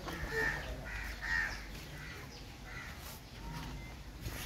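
Bird calling: a run of about five short calls, most of them in the first second and a half, then quieter.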